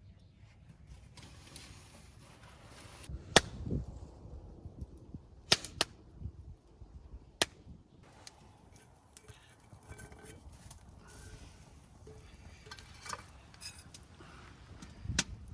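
A few sharp cracks or knocks, a close pair of them among them, over faint rustling.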